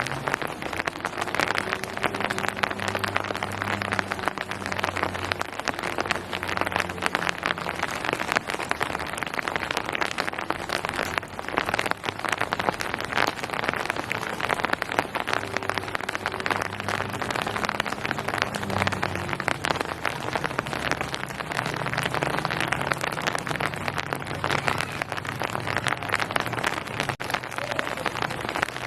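Steady rain falling on surfaces, a dense continuous patter of drops. A faint low hum comes and goes underneath.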